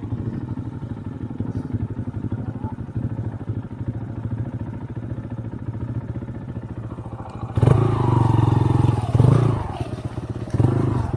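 Motorcycle engine running steadily at low revs, then opening up much louder about two-thirds of the way through as it is revved or pulls away.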